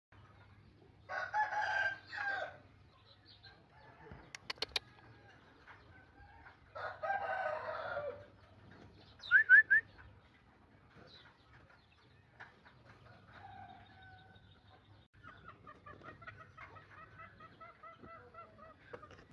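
Green junglefowl rooster crowing, two hoarse two-part crows some five seconds apart. Between them come a few sharp clicks, then a burst of three short loud chirps. Softer repeated clucking calls follow near the end.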